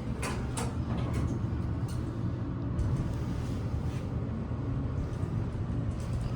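Modernized Otis passenger elevator car travelling between floors: a steady low hum, with a few light clicks and knocks, most of them in the first two seconds.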